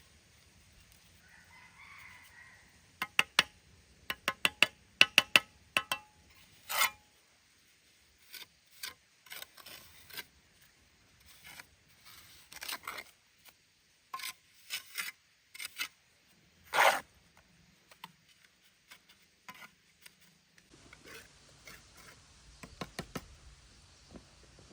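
Irregular sharp knocks and clattering: a quick cluster about three to six seconds in, then scattered strikes, with one longer, louder sound of about half a second near the end.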